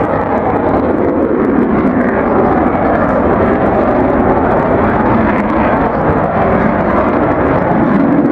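Eurofighter Typhoon fast jet flying a display, its twin turbofan engines making a loud, steady roar.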